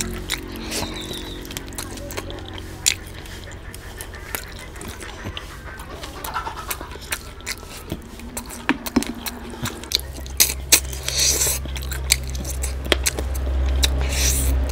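Close-miked eating sounds of a man eating curry and rice by hand: wet chewing, lip smacks and sharp mouth clicks. A low steady hum comes in about two-thirds of the way through.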